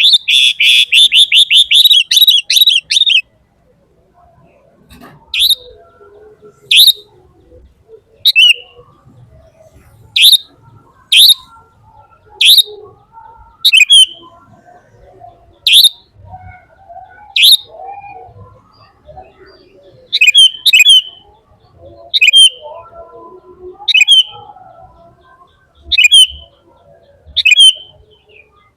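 A bird chirping: a rapid high trill in the first three seconds, then single sharp downward-sweeping chirps about once a second, some in quick pairs toward the end.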